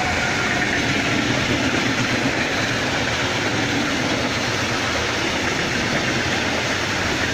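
Freight train of open goods wagons rolling past at speed behind an electric locomotive: steady, loud wheel and rail noise.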